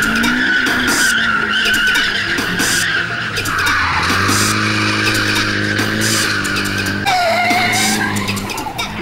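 A drifting car's tyres squealing in a long slide, giving way about four seconds in to the steady sound of its engine, then a second, lower-pitched tyre squeal from about seven seconds in.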